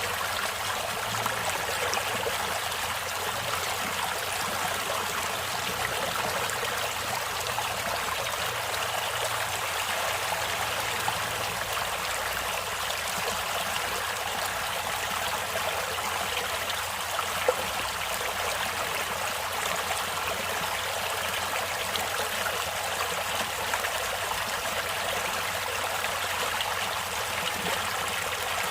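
Stream water flowing steadily over rocks, with trickling and gurgling and one brief click about 17.5 seconds in.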